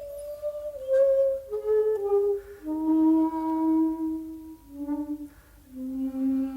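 Solo shakuhachi (Japanese end-blown bamboo flute) playing a slow phrase of long held notes that steps downward in pitch. There is a short break in the breath just past the middle before a low note is sustained.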